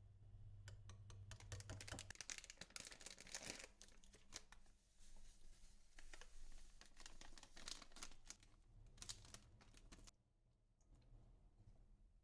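Faint crinkling and tearing with many small rapid clicks, which stops about ten seconds in.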